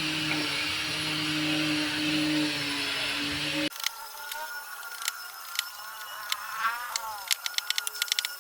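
A woodworking power tool running steadily with a hum and hiss, cut off abruptly about four seconds in. Scattered light clicks and taps follow, with a quick run of clicks near the end.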